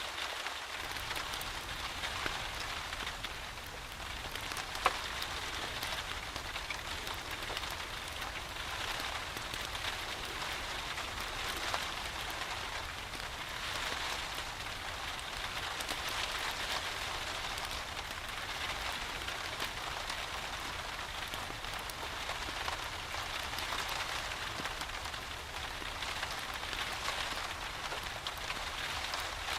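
Steady rain falling, mixed with occasional sharp crackles from a wood fire in a fireplace; one louder pop about five seconds in.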